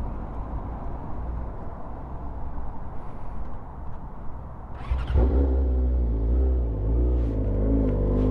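2008 Yamaha R6 inline-four engine running, at first as a low rumble. About five seconds in there is a sharp sound, and the engine note becomes louder and steadier, wavering slightly in pitch.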